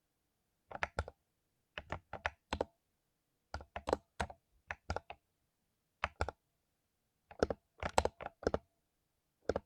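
Mechanical keyboard with lubed Cherry MX Silver linear switches typed on in short, irregular bursts of a few keystrokes, with pauses of about a second between bursts.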